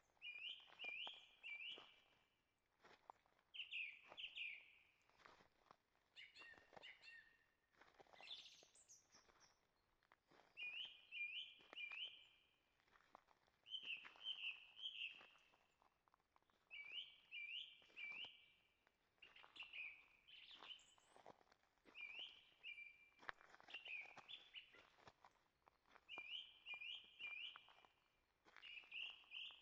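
A songbird singing the same short phrase of three or four quick, high notes over and over, one phrase every two to three seconds, with another bird's notes briefly about seven seconds in. Soft footsteps on a forest trail sound underneath.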